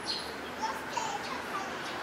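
Small birds chirping: several short, scattered calls over a steady background hiss of street ambience.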